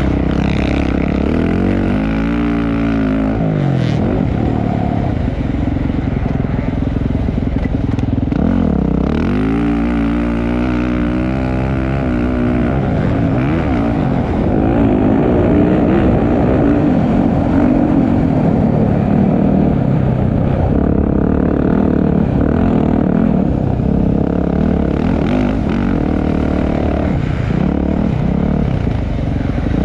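Motocross bike engines racing, revving hard with the pitch sweeping down and back up as the throttle is chopped and reopened, most clearly about two and nine seconds in, under a steady loud engine drone.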